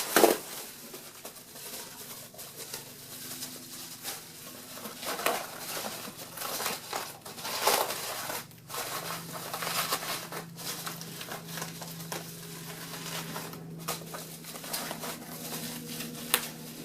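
Sheets of small bubble wrap being handled, slid in and tucked around a foam pool noodle: irregular rustling and crinkling with scattered small clicks.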